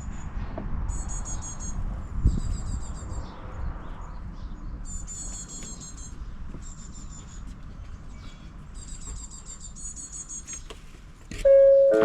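Small birds singing in short, high, trilled phrases about a second long, repeated several times with short gaps. Near the end a loud ringing tone with several pitches sounds and fades.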